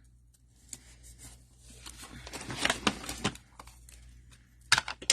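Craft supplies being handled on a work table: light rustling with scattered sharp clicks and taps, a cluster of them midway and a few more just before the end.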